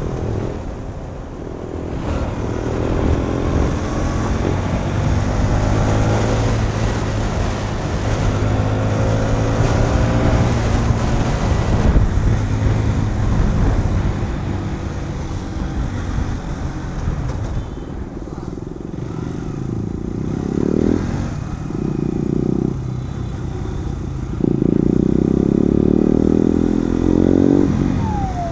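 KTM Duke 390 single-cylinder motorcycle engine running loud while riding, its revs rising and falling through the gears, with wind rush over the microphone.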